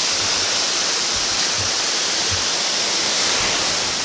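Steady loud rush of a waterfall and fast-flowing river water, an even hiss with no change.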